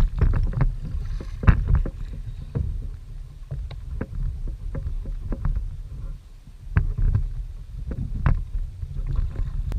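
Wind buffeting the microphone in a steady low rumble, with irregular sharp knocks and slaps of water against the plastic hull of a fishing kayak.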